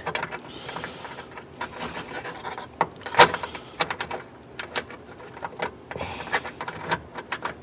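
Scattered light metallic clicks and taps of hand tools and small metal parts as an antique car's ignition switch is fitted into the dash and its nut tightened, with one sharper click about three seconds in.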